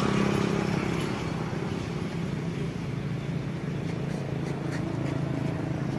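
A motor vehicle engine running with a steady low hum, against outdoor background noise.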